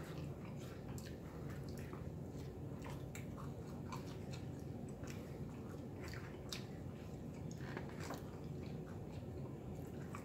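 A person chewing pizza crust dipped in sauce, close to the microphone, with scattered soft wet clicks and smacks of the mouth.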